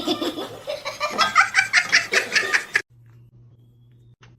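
A person laughing in quick repeated bursts, cut off abruptly near the end and followed by a faint low hum.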